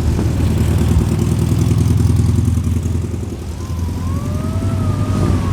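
Car engine running steadily close by, a low-pitched beat. In the last two seconds a faint tone glides up and down above it.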